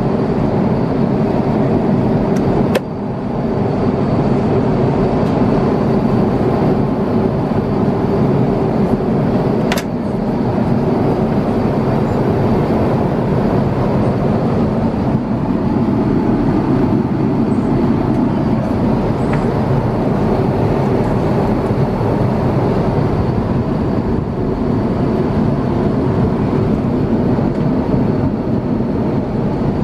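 Steady, loud cabin noise inside an Airbus A350-900 airliner: a constant rush with a low hum. A single sharp click sounds about ten seconds in.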